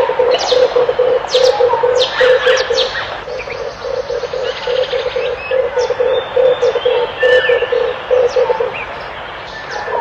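Red turtle doves cooing: a low, fast, rhythmic run of coos that pauses briefly and stops near the end. Sharp, high chirps of small birds come and go over it.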